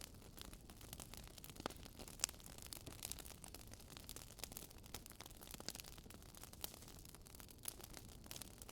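Campfire crackling faintly: irregular sharp snaps and pops, a few louder than the rest, over a steady low rush.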